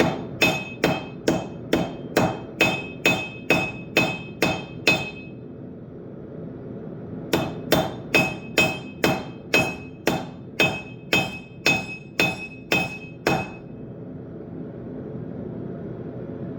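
Hand hammer striking hot steel on an anvil in a steady rhythm of about two blows a second, each blow with a bright ring, while forging a railroad spike knife. There is one pause of about two seconds partway through, and the hammering stops about three seconds before the end.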